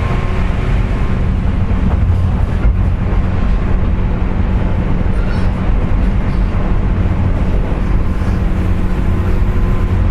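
Steady running noise of a JR West 201 series electric train at speed, heard inside the motor car: a low rumble of wheels on rail under a steady motor whine. The whine is the loud jet-like sound that, the uploader says, comes from electrical pitting (electrolytic corrosion) of the bearings.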